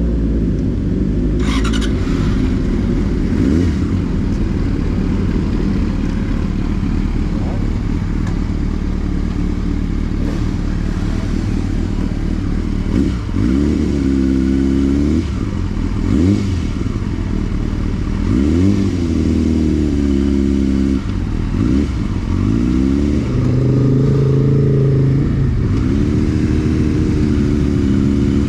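Motorcycle engine running hard on a racetrack, its pitch repeatedly climbing and then dropping sharply, as with acceleration and gear changes. There is a brief sharp click about a second and a half in.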